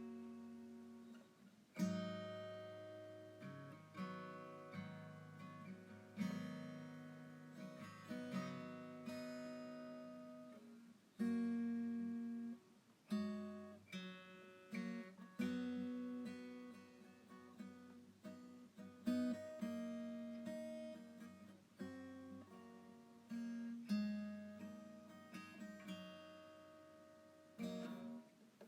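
Background music: acoustic guitar, plucked and strummed chords ringing out and fading between strokes.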